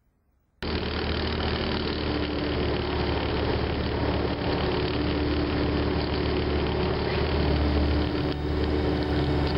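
Car engine running steadily at idle, cutting in suddenly about half a second in after near silence.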